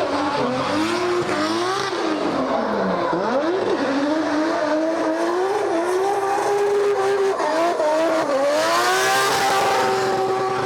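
A drift car's engine held at high revs, dropping sharply twice as the throttle is lifted and then climbing back. Near the end a rushing hiss swells over it, typical of tyres squealing in a slide.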